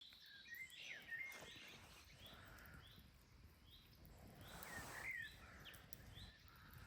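Faint birds calling: a short high chirp repeating about every half second, with a few sliding whistled calls about a second in and again around five seconds.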